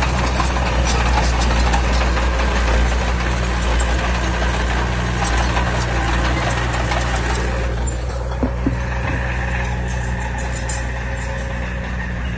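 Heavy diesel engine running steadily, easing off a little about eight seconds in, with a couple of short knocks around then.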